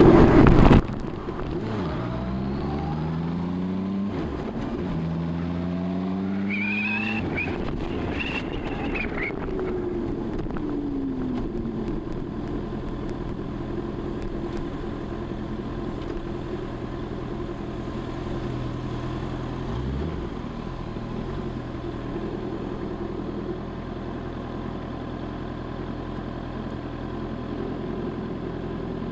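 Honda CB650R's inline-four engine pulling away and revving up through two gears, then easing off and idling steadily while stopped. A brief loud rush of wind opens the stretch.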